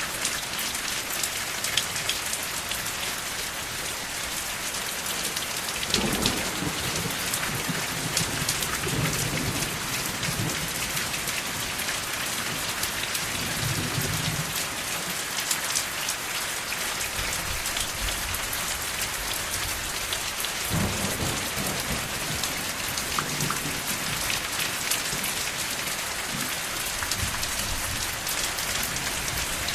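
Steady rain falling in an even hiss, with two long low rolls of thunder, the first building about six seconds in and the second around twenty-one seconds.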